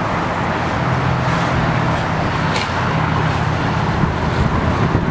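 Road traffic noise: a motor vehicle's engine running steadily with a hiss of tyres and road.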